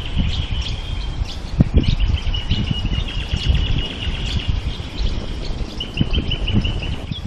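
Birds calling in riverside bush: a high, rapid trill that carries on almost without a break, with a few short chirps. Low, irregular rumbling from wind buffeting the microphone underneath.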